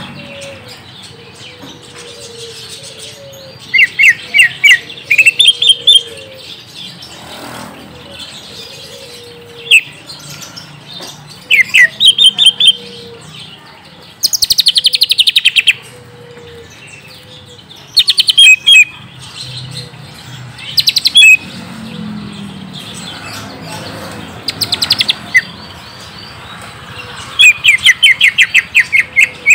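Green leafbird (cucak ijo) singing: loud bursts of sharp, varied chirps and fast trills every few seconds, with a longer rapid trill near the middle.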